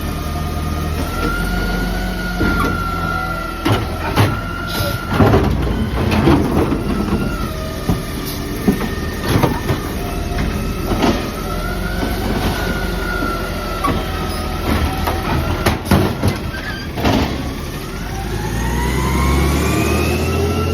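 Garbage truck running, with a whine that wavers in pitch and repeated bangs and clatter, typical of the hydraulics working and bins and trash being handled. Over the last few seconds the whine rises steadily in pitch as the engine revs up.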